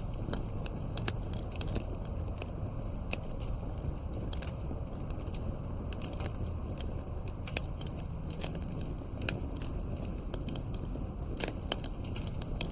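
Campfire burning, with a steady low rumble and irregular sharp pops and crackles of burning wood.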